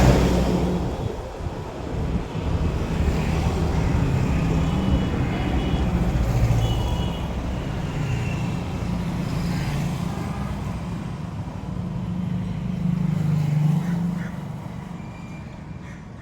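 Motor vehicle engine running nearby: a steady low rumble that eases off and fades after about fourteen seconds.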